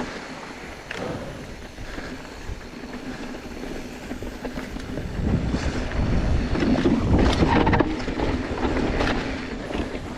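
Mountain bike ridden down a dirt trail: wind rushing over the camera microphone and tyres rolling on dirt, with short rattles and knocks from the bike over bumps. It gets louder from about five and a half seconds in.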